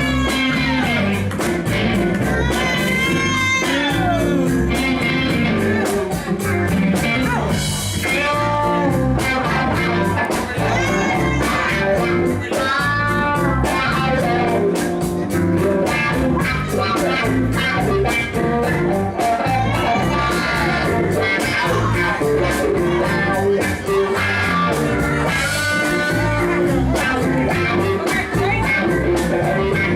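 Southern soul band playing an instrumental break, an electric guitar lead with bending notes over bass and a steady drum beat.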